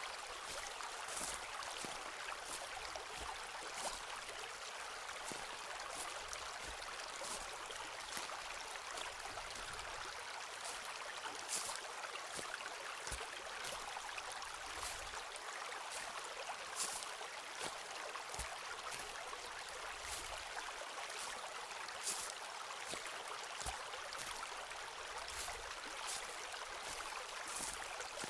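Footsteps on a forest path, a short sharp step sound every second or so, over a steady hiss.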